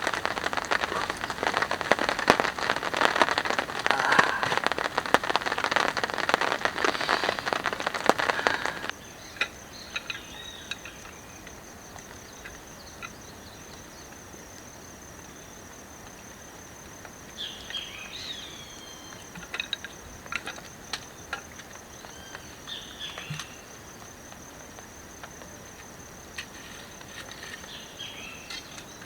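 Steady rain falling, which cuts off abruptly about nine seconds in. Then comes a steady, high-pitched insect trill with scattered short bird calls.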